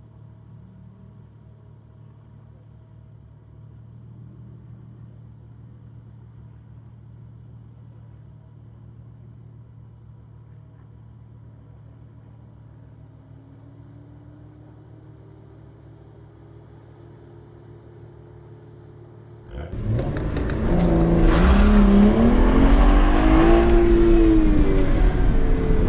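BMW 135i's turbocharged inline-six idling with a steady low hum, then launched hard about twenty seconds in. It revs loudly at full throttle, its pitch climbing, dipping at a shift and climbing again.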